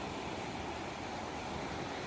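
Ocean waves washing in, a steady rushing noise.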